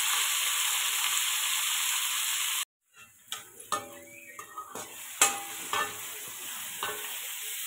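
Chopped tomatoes frying in hot oil in a steel kadhai: a steady sizzle that cuts off abruptly a little under three seconds in. After that the frying is quieter, with a perforated steel spatula scraping and clinking against the pan several times.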